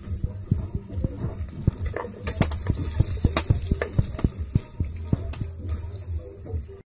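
Chopped aromatics frying in hot oil in a pot over an open wood fire: a steady sizzle dotted with many sharp crackling pops, with a metal spatula stirring about halfway through. The sound cuts off abruptly at the very end.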